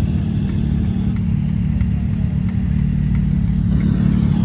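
Car engine running steadily with a low rumble, and a faint tick repeating about every two-thirds of a second.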